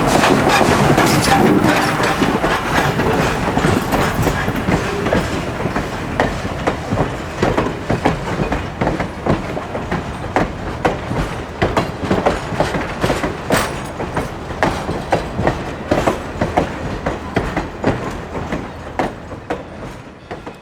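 A steam-hauled passenger train passing, led by CNJ 0-6-0 steam locomotive 113. It is loudest for the first couple of seconds, then gives way to a steady clickety-clack of car wheels over the rail joints that slowly fades as the train moves off.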